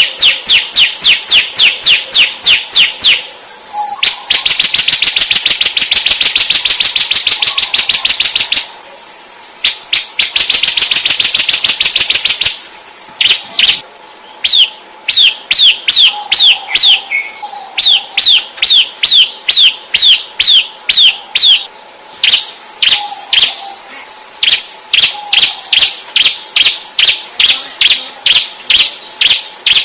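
Songbird masteran recording: fast, evenly repeated high chirps, several a second, sweeping downward in pitch and changing pattern every few seconds, including a rapid trill. A constant high insect-like buzz runs underneath and cuts out for a while in the middle.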